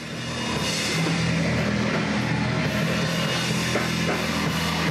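Heavy rock band playing loud distorted guitar and bass over a drum kit, a dense, steady wall of sound.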